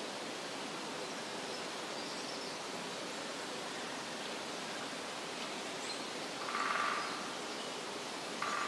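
Steady forest ambience, an even rushing hiss like wind in leaves or running water, with a few faint high bird chirps. A short, louder rasping call rises over it about six and a half seconds in, and another starts abruptly right at the end.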